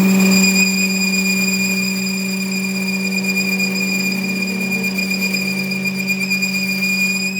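A machine running steadily, with a constant low hum and a high, even whine.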